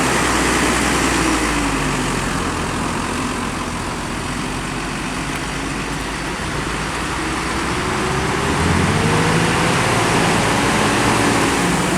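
Diesel bus engine running just after being restarted from a stall on a steep bend, its pitch climbing slowly through the second half as the revs rise.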